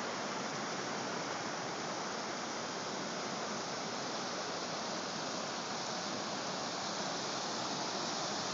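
Flooded creek rushing steadily, its fast, high water pouring over a road.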